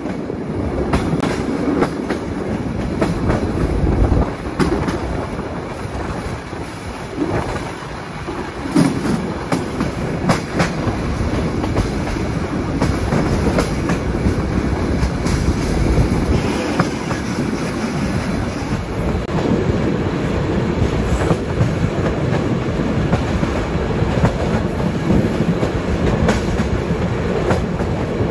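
Passenger train rolling through a station yard, its wheels clattering over rail joints and points in irregular clicks and clacks over a steady rumble, heard from an open carriage window.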